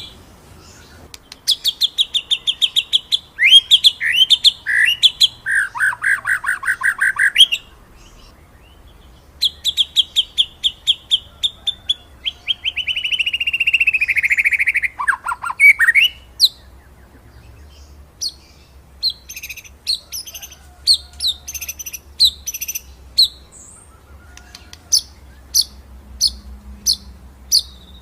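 White-rumped shama singing: fast rolling trills and sharp, high 'shooting' notes in loud phrases broken by short pauses.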